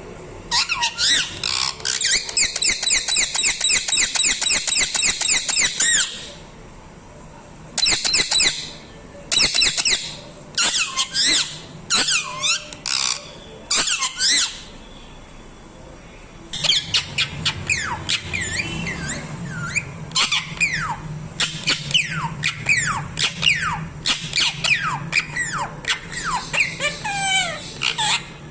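Parrot screeching in a fast series of sharp, high calls falling in pitch, several a second for about five seconds. After a pause come short scattered bursts, then a long run of varied squawks and chatter.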